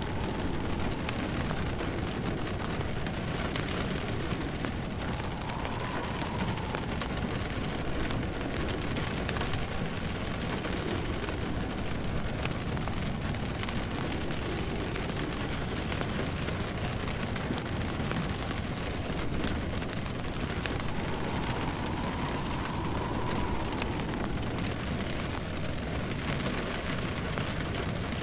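Steady rain pattering, layered with a crackling fireplace. A faint wind whistle rises and falls a few times.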